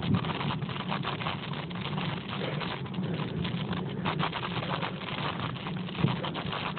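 Steady riding noise from a bicycle on a hill climb: a low rumble with irregular light ticking and rattling.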